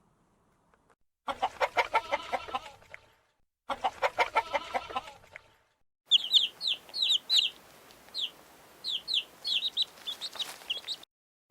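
A chicken clucking in two quick rattling bouts, followed by a run of short, high, falling chirps.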